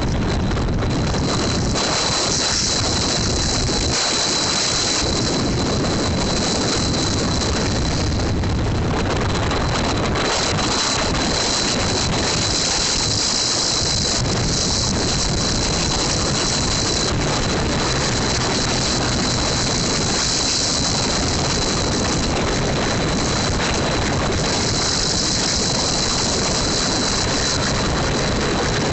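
Heavy wind rush on the microphone of a moving motorcycle, with small motorcycle engines running underneath and a steady high whine.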